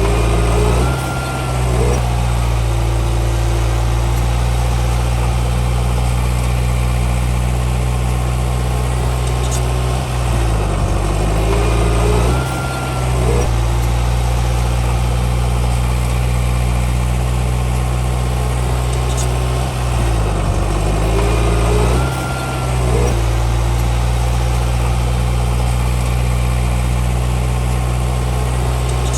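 Komatsu D31P bulldozer's diesel engine running steadily, its pitch shifting briefly three times, about every ten seconds, as it works.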